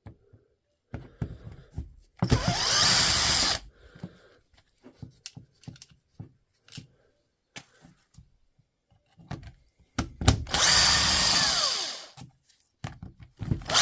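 Small electric driver running in two bursts of about a second and a half each, the motor's pitch sliding as it speeds up and slows, with small clicks and knocks of parts being handled between the bursts.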